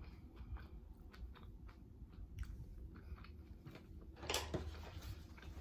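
Close-miked chewing of a mouthful of vegan corn dog, with faint small wet clicks and crackles. About four seconds in comes a short, louder rustle, like a paper napkin being grabbed.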